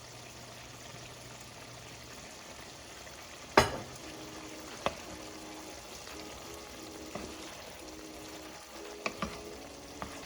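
Chicken sizzling in a pan as it is stirred and seasoned, with one sharp knock about three and a half seconds in and a few lighter clicks later.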